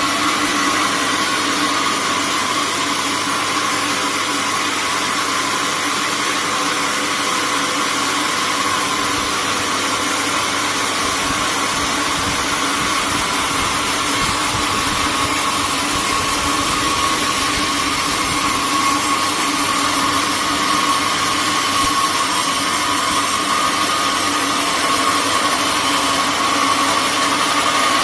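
Sawmill machinery running steadily without pause, a constant mechanical noise with a steady whine over it.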